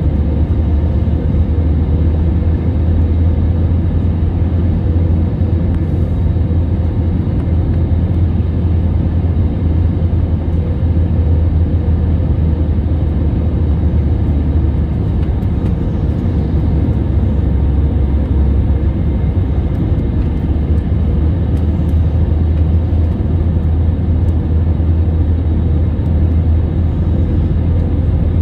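Jet airliner cabin noise heard from inside the passenger cabin: a steady low rumble of engines and airflow.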